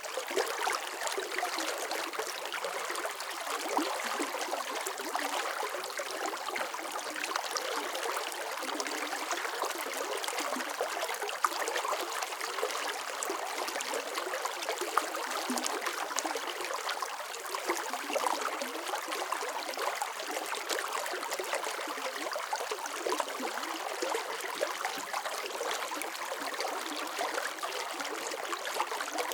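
Water running steadily over stones in a small stream, a continuous splashing trickle with many small droplet splashes and the odd louder splash.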